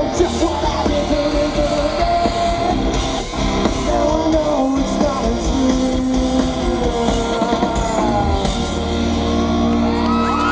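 Live rock band playing with singing and guitar, heard at concert volume from the audience.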